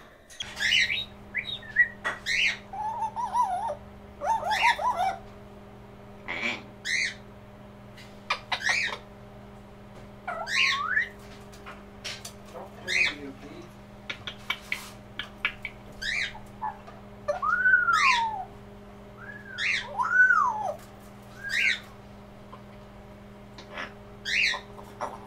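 Pet African grey parrot and cockatiel calling: a string of short, high chirps about once a second, mixed with warbling and a few whistles that rise and then fall, the loudest about two-thirds of the way through. A steady low hum runs beneath.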